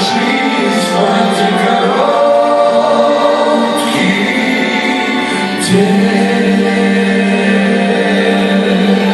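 Live band playing a slow pop ballad, with sustained chords and choir-like backing vocals holding long notes. There are two sharp accents, about four and six seconds in.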